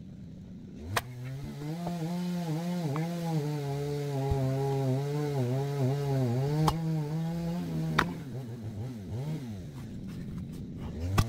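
A small engine starts running about a second in, its pitch repeatedly dipping and recovering as if under load, with a few sharp knocks of wood on wood or steel, four in all.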